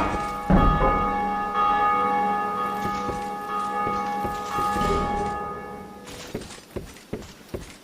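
Church bell in a belfry struck once, about half a second in, after earlier strokes. Its ringing hum, rich in overtones, dies away slowly over about five seconds, and a few light clicks or knocks follow near the end.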